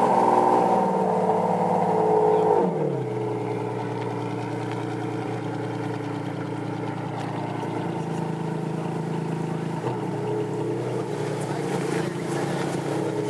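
Ferrari Enzo's V12 engine held at raised revs, then falling in pitch about two and a half seconds in and settling into a steady idle.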